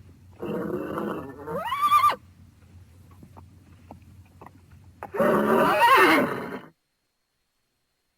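Horse whinnying twice, a few seconds apart, each call climbing in pitch and then falling away.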